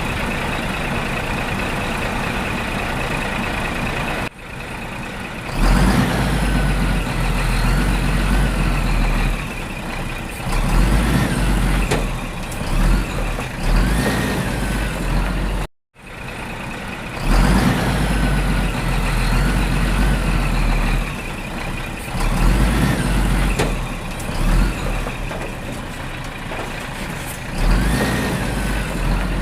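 Heavy truck or tractor engine sound effect. For the first few seconds it runs steadily with a thin high tone over it, then it rumbles with revs rising and falling. It cuts out for a moment about halfway through, and the same stretch of revving repeats.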